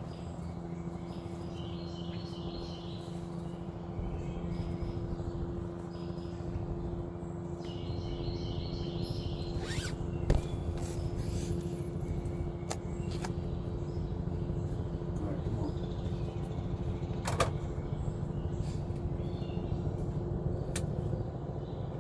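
News helicopter hovering overhead, a steady drone of rotor and engine with a few held tones. Faint bird chirps and two short sharp clicks, about ten and seventeen seconds in.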